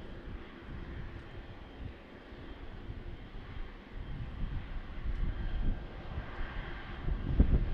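Boeing 777-300ER's GE90 jet engines rumbling at a distance, the low roar swelling in gusts and louder near the end.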